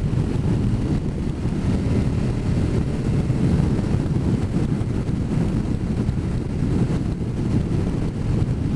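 Steady wind rush on a riding motorcyclist's microphone, with the motorcycle's engine running underneath.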